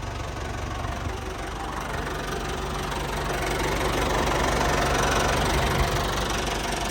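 Cat 416B loader backhoe's turbo diesel engine idling steadily. It gets somewhat louder towards the middle and eases off near the end. The seller describes it as running clean with no blow-by.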